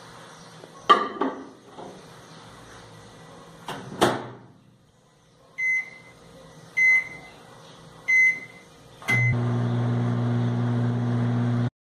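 Microwave oven being loaded and started: a couple of knocks, a louder thump of the door shutting about four seconds in, then four short keypad beeps as the time is set. The microwave then starts running with a steady hum, which cuts off suddenly near the end.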